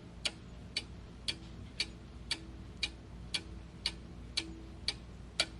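Honda V6 engine with a sharp, light tapping about twice a second over a faint running hum. The owner traced the tapping to the rear-bank timing belt area.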